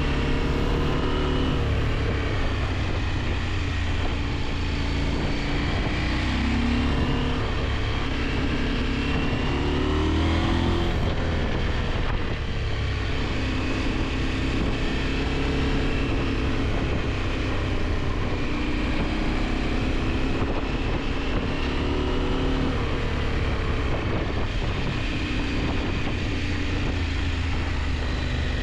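KTM 890 Adventure's parallel-twin engine running on the move, its revs rising and falling several times with throttle and gear changes, under steady wind rush on the helmet camera.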